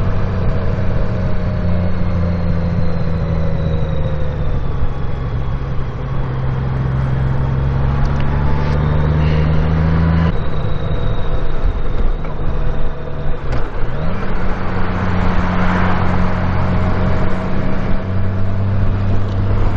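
Honda Gold Wing F6B's flat-six engine running under way, with wind noise. Its note climbs slowly over the first ten seconds, drops suddenly, dips briefly near fourteen seconds, then holds steady.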